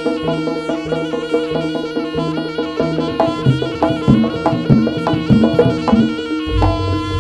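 Live Jaranan gamelan music: a reedy shawm melody (slompret) held over drums and pitched gong strokes, with a run of quick pitched strokes midway and a deep low boom about six and a half seconds in.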